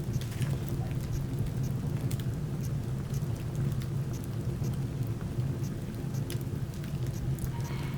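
Wood fire crackling, with irregular small pops and snaps over a steady low rumble.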